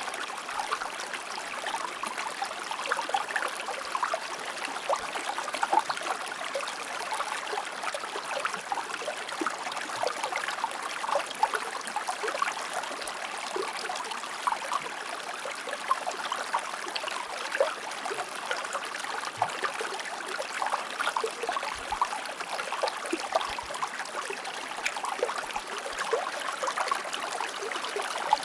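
Shallow stream flowing and burbling steadily over rocks, with many small splashes and trickles.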